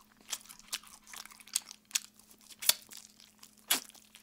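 Close-miked chewing of crispy fried chicken: a run of short, irregular crunches, loudest about two and a half and three and a half seconds in.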